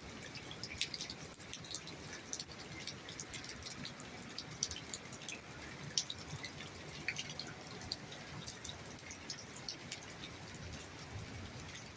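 Heavy rain: a steady hiss of rainfall with many irregular drips and drops splashing, where water has pooled on a flooded terrace.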